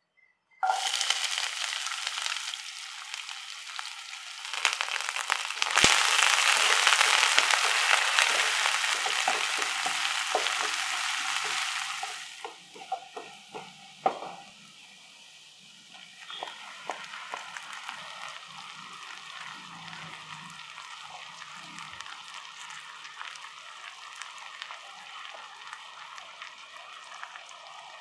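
Sliced shallots dropped into hot oil in a nonstick pan and sizzling loudly, with the sizzle getting louder again about five seconds in. After about twelve seconds it settles to a softer steady sizzle, with a wooden spatula clicking and scraping against the pan as the shallots are stirred.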